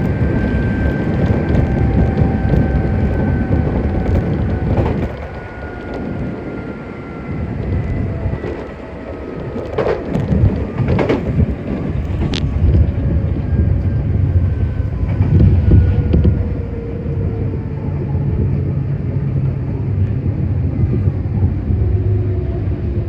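Running noise of a Nankai 7100 series resistance-controlled electric train, with the traction motors' whine falling slowly in pitch as the train slows. A few sharp clicks of the wheels over rail joints come about halfway through.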